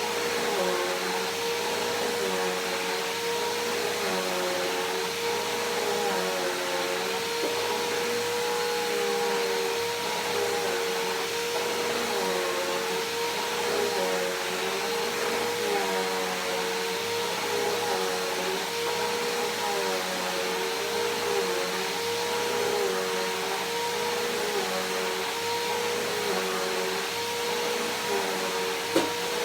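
Bissell PowerForce Helix Turbo upright vacuum cleaner running steadily, its motor whine wavering slightly in a repeating pattern as it is pushed back and forth over carpet. A single sharp knock comes near the end.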